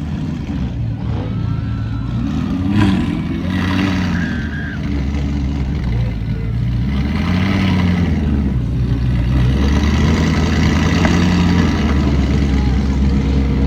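A car engine running with a deep, steady low rumble that grows louder about five seconds in.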